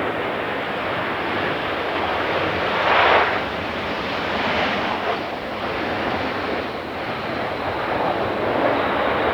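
Boeing 737-900 jet airliner's CFM56 engines running during its landing, a steady loud noise with a brief louder surge about three seconds in, with wind on the microphone.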